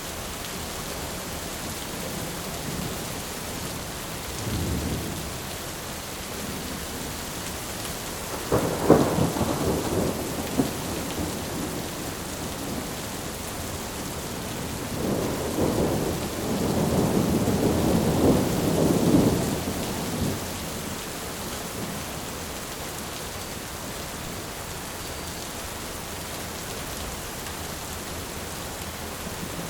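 Steady heavy rain with thunder: a low rumble about five seconds in, a sharp thunderclap about nine seconds in, and a longer rolling rumble from about fifteen to twenty seconds.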